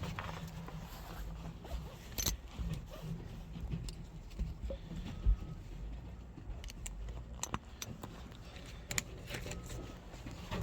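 Scattered clicks and small metallic rattles of hand tools and parts being worked on a minivan door's outside handle, over a steady low rumble.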